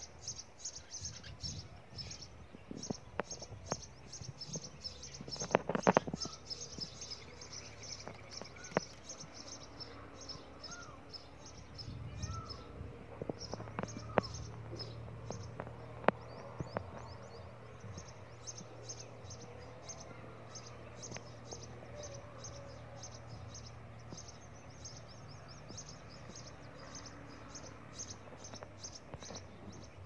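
Small birds chirping in rapid, high-pitched runs of calls that keep going, with a few sharp knocks about six seconds in and a handful more later.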